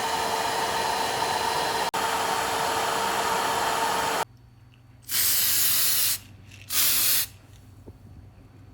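A steady rush of blown air with a motor hum in it runs for about four seconds and stops. Then come two short hissing sprays from an aerosol spray can, the first about a second long and the second about half as long.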